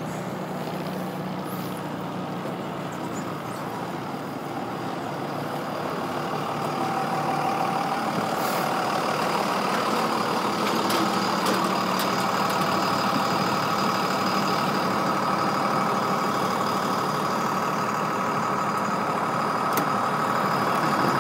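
Truck engine running close by. It grows louder over the first several seconds and then holds steady.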